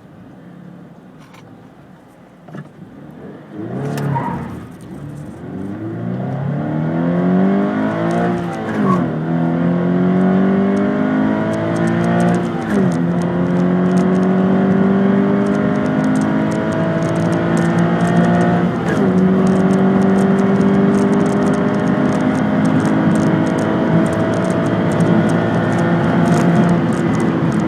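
2013 Subaru BRZ's 2.0-litre flat-four engine accelerating hard through the gears. A quick rev about four seconds in, then the engine note climbs and drops sharply at each of three upshifts before settling into a loud, slowly rising drone in the higher gear.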